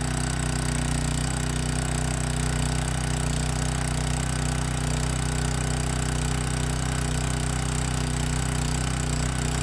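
Small gasoline engine of a pressure washer running steadily at a constant speed, having just been started.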